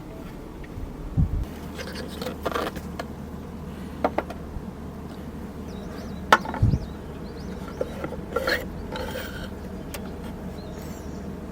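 Scattered light knocks, clicks and scrapes of things being handled, over a steady low hum.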